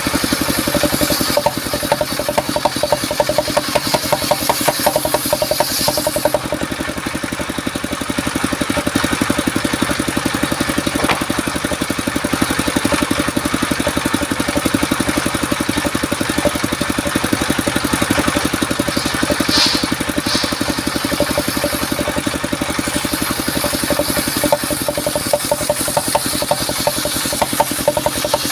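Engine of a mobile circular sawmill running steadily with a fast, even chugging.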